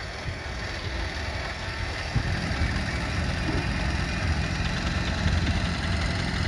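Miniature steam traction engine running past in a parade, a low steady mechanical rumble that comes in about two seconds in.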